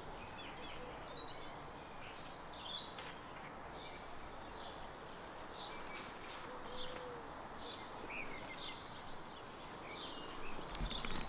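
Small birds chirping and calling on and off, short high notes scattered throughout, over a steady outdoor background hiss.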